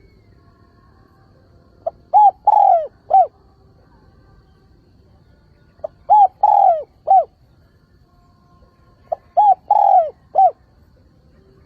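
Spotted dove cooing its song: three phrases about three and a half seconds apart, each a soft short note followed by three falling coos, the middle coo the longest.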